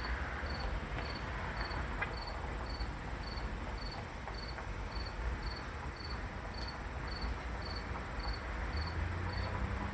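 Insect chirping steadily, a short high chirp repeated evenly about twice a second, over a low steady hum.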